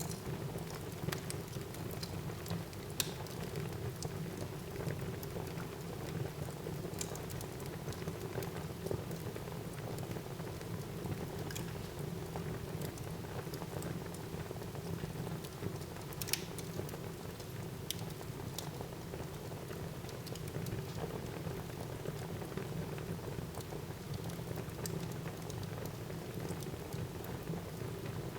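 Fire burning in a fireplace: a steady low rush of flames with irregular crackles and pops, the sharpest about three seconds in and about sixteen seconds in.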